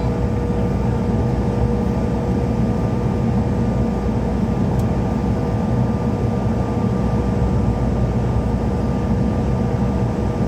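Cabin noise of a CRJ-700 regional jet with its GE CF34 turbofans running: a steady, loud rumble with a constant engine whine, holding level with no spool-up.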